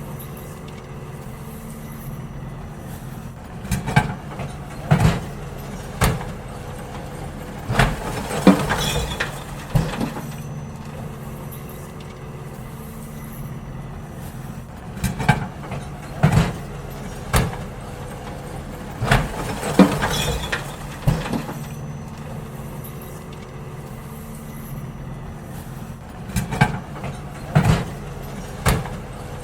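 Garbage truck's diesel engine idling steadily while wheelie bins are emptied, with repeated loud bangs and clatter of bins and rubbish being tipped into the truck in clusters of knocks.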